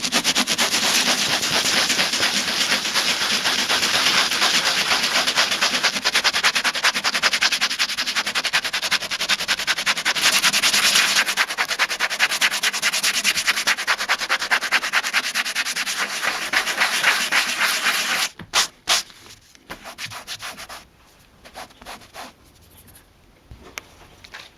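Sandpaper scraping over the scuffed leather of a chair in quick, even back-and-forth strokes, sanding the surface down. It stops about 18 seconds in, followed by a few light knocks and handling sounds.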